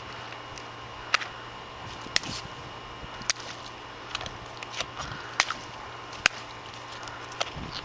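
A dog tussling with balloons: a string of sharp snaps and clicks, about five loud ones spread unevenly over several seconds among smaller ticks, over a steady low hum.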